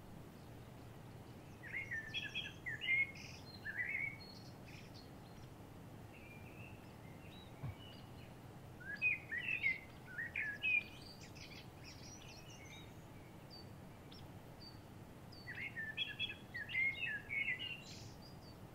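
A songbird singing three quick warbled phrases of rapid rising and falling notes, each about two and a half seconds long and several seconds apart, over a faint steady background hiss.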